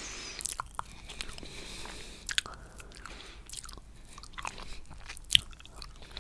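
Close-miked chewing and wet mouth clicks of a person eating coconut cheesecake, with one sharper click about five and a half seconds in.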